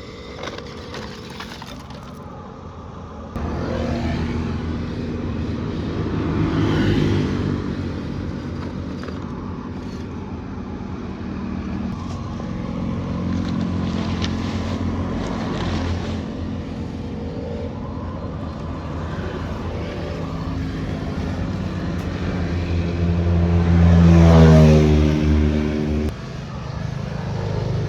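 Electric motors and plastic gearboxes of a remote-control construction truck whining as it works, speeding up and slowing down. The whine starts suddenly a few seconds in, climbs in pitch to its loudest near the end, then cuts off abruptly before another motor carries on.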